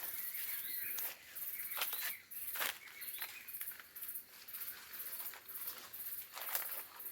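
Footsteps along a forest trail, with small birds chirping at intervals over a high, pulsing hiss of forest ambience.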